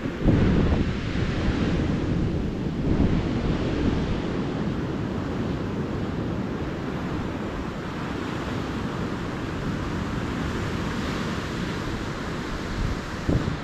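Ocean surf on a beach. A wave breaks loudly just after the start, then the surf washes on steadily.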